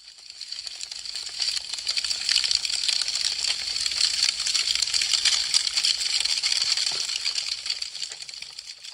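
Wood fire crackling with a dense stream of fast, sharp pops and snaps. It swells up at the start and fades away near the end.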